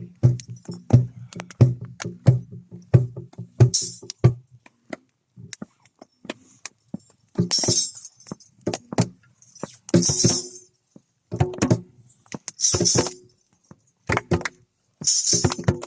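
Percussion music: a quick, even pattern of pitched drum strokes for about the first four seconds, then scattered knocks and short rattling, shaker-like bursts every two to three seconds.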